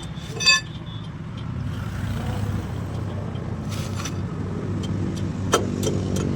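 A steady, low machine hum from an engine or motor, with a short ringing metallic clink about half a second in and a sharp knock near the end.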